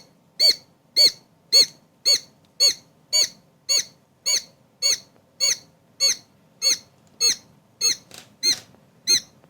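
Newly hatched quail chick peeping over and over, short shrill calls evenly spaced at about two a second.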